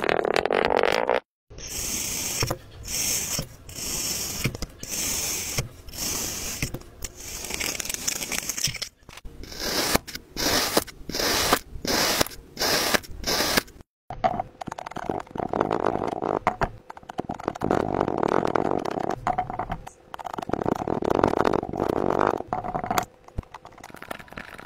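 Close-up scraping and crunching sounds in short clips one after another. First comes a run of separate strokes, between one and two a second, each with a bright hiss. After a cut, a denser crackling scrape follows.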